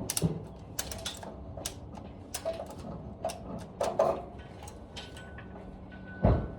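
Irregular metallic clicks and knocks of tools and parts being handled during an engine install, with one heavier thump near the end.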